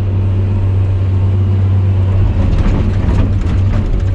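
Engine of a heavy bucket-digging machine running steadily under load, with clanking and scraping from the bucket joining in from about two seconds in as it digs.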